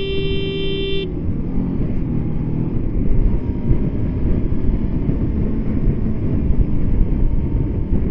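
A vehicle horn held in one long steady blast that cuts off about a second in, followed by steady low engine and wind rumble from a moving motorcycle.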